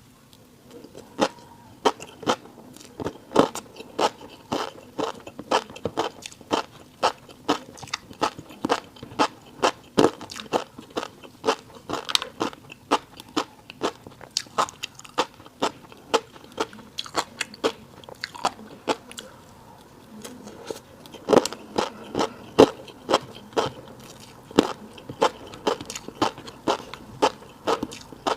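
Close-miked chewing of a fish roe rice bowl: a steady run of sharp, crunchy clicks and pops, about two to three a second, easing off briefly before resuming.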